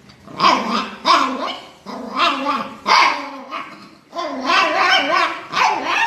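A dog barking and growling in a run of drawn-out pitched calls, several in a row, with a busier stretch in the last two seconds.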